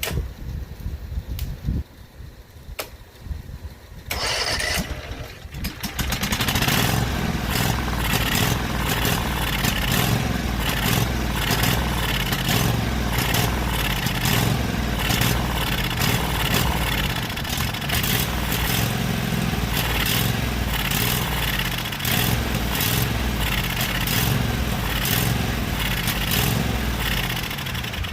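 17 hp Kawasaki engine of an old Cub Cadet lawn tractor being cranked by its starter about four seconds in, catching within a couple of seconds, then running steadily.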